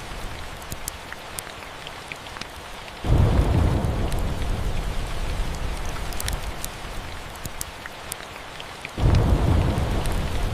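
Steady rain with a fireplace crackling, sharp pops scattered throughout. A low thunder rumble sets in suddenly about three seconds in and again near the end.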